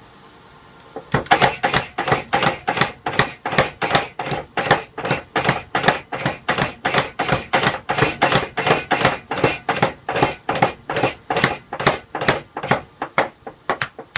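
Hammer blows on metal in a fast, even rhythm, about three a second, starting about a second in. Each blow has a short metallic ring.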